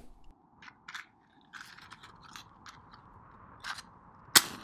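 A string of small, irregular mechanical clicks and crunches, then one much louder sharp click near the end.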